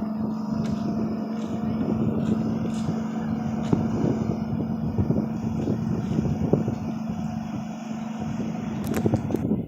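An engine running steadily: a constant low hum with rough, crackly noise over it.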